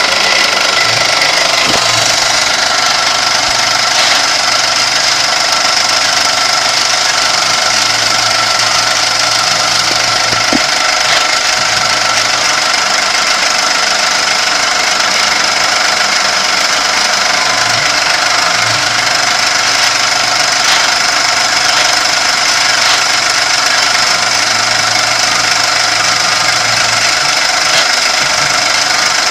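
Kami FKM 350 PL machine running with a steady whine, and a low rumble from its Y axis that comes and goes in stretches of one to three seconds. This is the abnormal Y-axis noise being investigated.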